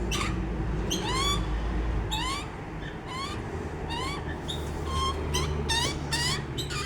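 Baby birds calling for food with short, repeated rising chirps, about two a second, over a low steady rumble.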